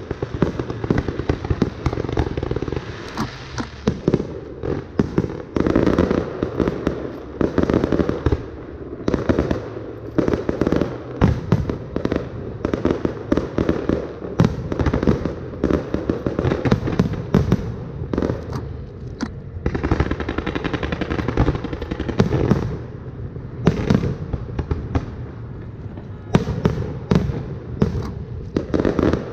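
Fireworks display: a dense, irregular barrage of bangs and crackling pops, many shells bursting close together, with loud single reports standing out every second or so.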